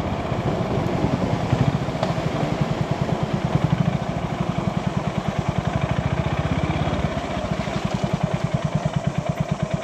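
Motorcycle engine idling, with a rapid, even low beat that holds steady.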